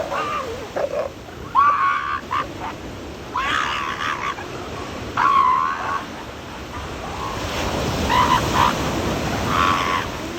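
Female elephant seals squabbling: about five short, harsh pitched calls a second or two apart, over the steady wash of surf. The quarrels come from crowding on the beach at high tide.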